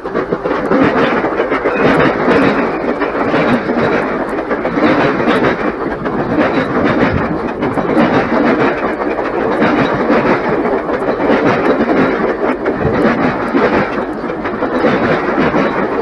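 A push-pull commuter train's passenger coaches rolling past close by, wheels clicking over the rail joints in a loud, steady rumble that builds quickly as the leading cab car arrives.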